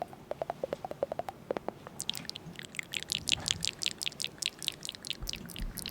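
Rapid run of light taps or clicks, roughly seven a second. They are dull and low for the first second and a half, then sharper and brighter from about two seconds in.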